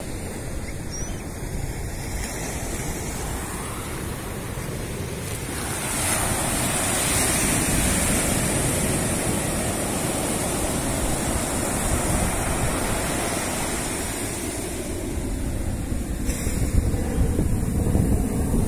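Ocean surf breaking and washing up a beach, a steady rush that swells about six seconds in and eases off again near the end, with wind buffeting the microphone.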